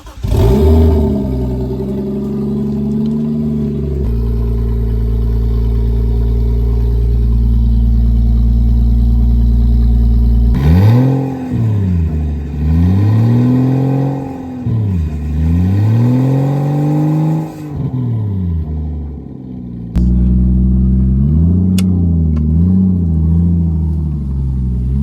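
Lexus IS200's engine catching about half a second in on its first start after a sump replacement and oil refill. It runs at a high idle that settles down after a few seconds, then is revved three times, rising and falling. Near the end it idles with a few small blips.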